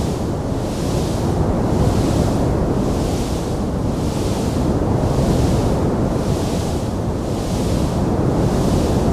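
Wood fire burning in a stone fireplace: a steady, dense low rumble of flames with a hiss that swells and fades about once a second.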